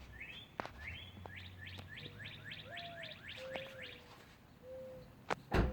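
A songbird sings a run of about a dozen rising whistled notes that come faster and faster. Under it a mourning dove coos low, one rising-and-falling note and then three steady ones. A sharp thump near the end is the loudest sound.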